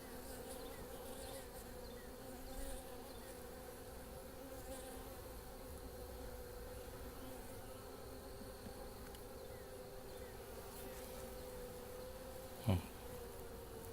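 Honeybees humming steadily from an opened hive, with one short knock near the end.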